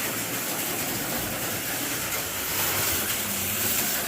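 Two HO-scale slot cars running laps on a plastic slot-car track: a steady whirring of their small electric motors and a rattle of the cars on the track.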